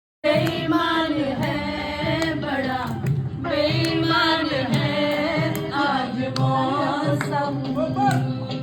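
Singing with music, starting abruptly just after the start and carrying on as a continuous, wavering melodic line.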